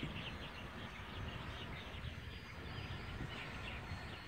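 Birds chirping: many short, quick calls repeating over a low rumble of wind.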